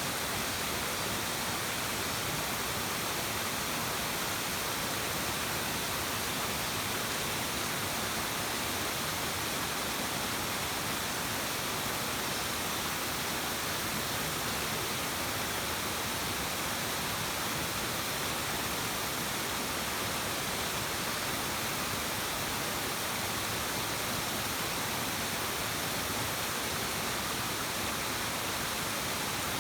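Mountain stream water rushing steadily, a constant even hiss with no breaks or separate events.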